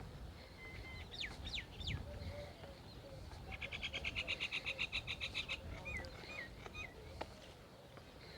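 Songbird calling: a few quick downward-sweeping chirps, then a rapid even trill of about a dozen notes lasting about two seconds, then a few short chirps.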